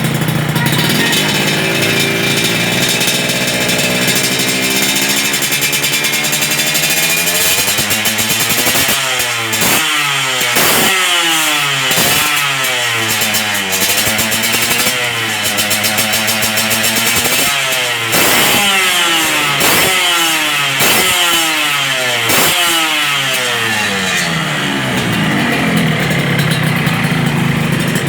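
Yamaha RX-King's two-stroke single-cylinder engine running through an aftermarket 'lobster' exhaust, crisp-sounding. It idles, then is blipped about a dozen times in quick succession, each rev rising and dropping sharply, before settling back to idle near the end.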